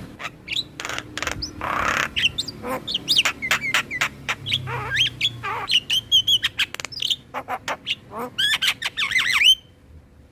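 Javan mynas and other starlings singing: a rapid, varied chatter of whistles, chirps, clicks and harsh rasping calls, used as a master song to prompt caged birds to sing. It cuts off suddenly shortly before the end.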